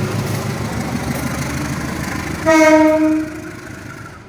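Train running past with a steady rumble, then one short single-tone train horn blast about two and a half seconds in, lasting under a second; the rumble fades away afterwards.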